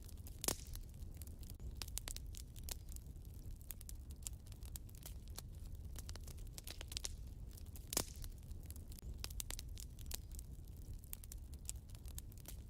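Wood fire in a fireplace crackling with many small snaps and two louder pops, about half a second in and about eight seconds in, over a low steady rumble.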